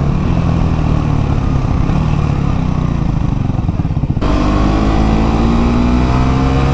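The KTM Duke 390 Gen 3's single-cylinder engine running under way at a fairly steady note. About four seconds in the note changes abruptly and then climbs steadily as the bike accelerates.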